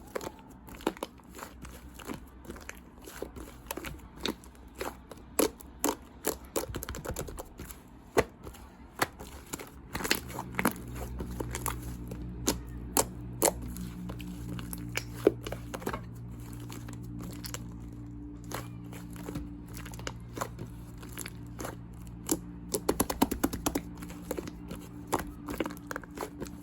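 Pink fluffy slime being pressed, poked and stretched by hand: a run of irregular sticky clicks and crackling pops. About ten seconds in, a low steady hum starts underneath and continues.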